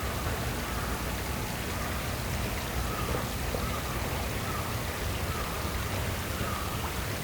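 Steady outdoor hiss like rain or running water, with a low rumble underneath. Faint short high notes come every second or so.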